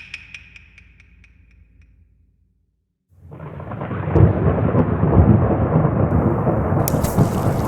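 Thunderstorm sound: after a few fading light ticks and a moment of silence, a rumble of thunder with rain swells up about three seconds in and stays loud, gaining a brighter hiss near the end.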